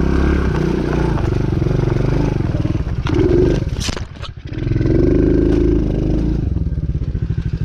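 Small single-cylinder engine of a DB14 110cc pit bike revving up and down under throttle while riding, with a brief clatter about four seconds in, which the rider calls a "clink clink on the bottom" (the underside striking something). It dips briefly, picks up again, and then settles into a steady, even pulsing beat for the last second or so.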